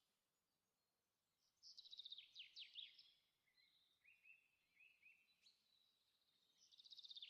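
A songbird singing faintly. Two phrases, each a quick high trill that runs into a few falling notes: one starts about a second and a half in, the other near the end, with softer single notes between them.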